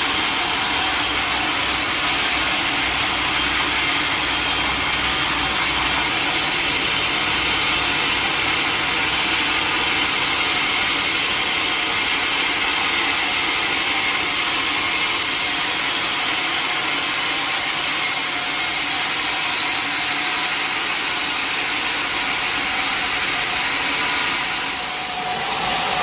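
Sawmill saw blade cutting steadily through a large mahogany log, a continuous high sawing noise that eases briefly near the end.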